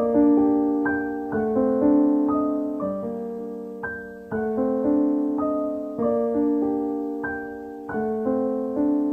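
Background piano music: slow, gentle chords, each note struck and left to fade.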